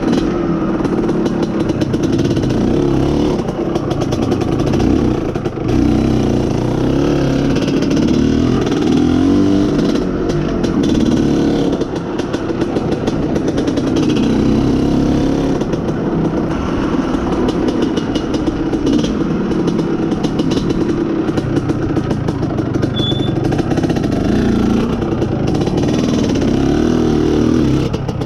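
IZh Planeta Sport's single-cylinder two-stroke engine running under way, its pitch rising and falling with the throttle. The owner puts its poor pulling down to a lean mixture.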